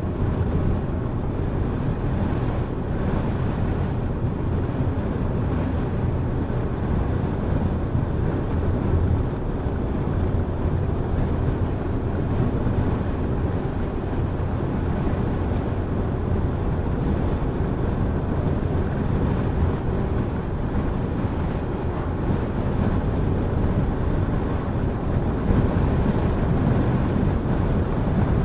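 Car driving at a steady speed: a steady low rumble of tyres, engine and wind noise.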